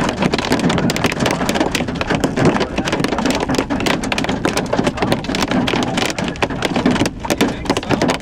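Nickel-sized hail hitting a car, heard from inside: a dense, irregular clatter of many small impacts.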